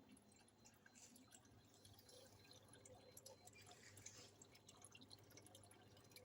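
Faint dripping and trickling of aquarium water over a low steady hum.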